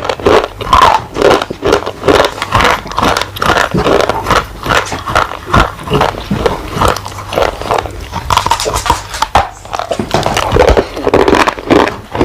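Loud, close-up chewing and crunching of a dry edible clay bar, a rapid run of crisp crunches a few each second with grinding chews in between.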